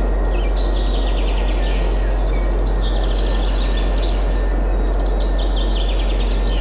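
Forest ambience: a steady rush of wind with a constant low rumble, and small birds singing rapid trilled phrases over it, several of them falling in pitch.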